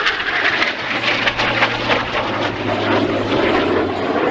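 Jet noise from a Northrop F-5's twin turbojet engines as it flies its airshow display, a steady, wide rushing sound.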